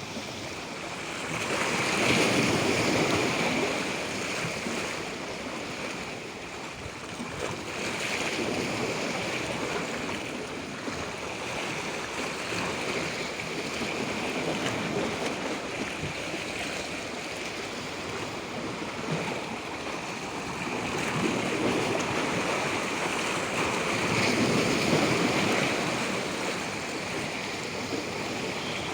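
Waves washing in: a continuous rushing of water that swells and eases every several seconds.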